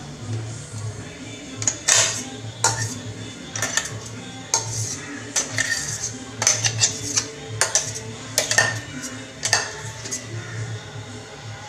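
Mixer grinder jars and lids being handled, with irregular clinks and clatters.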